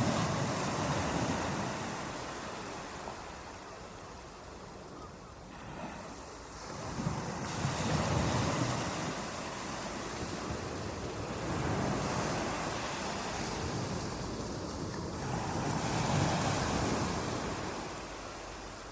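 Ocean waves washing in on a shore, rising and falling in slow surges, about four in the stretch.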